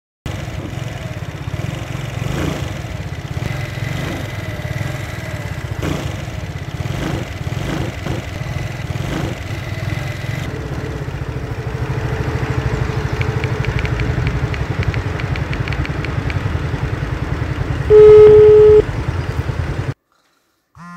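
Small moped scooter engine running steadily with a fast, even pulse, getting a little louder about halfway. Near the end comes a single loud horn beep, a steady tone lasting under a second.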